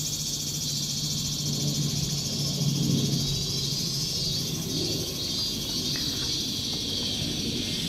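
Japanese cicadas calling in chorus: a loud, steady, high-pitched buzzing drone with a fine rapid pulse, with a low steady hum underneath.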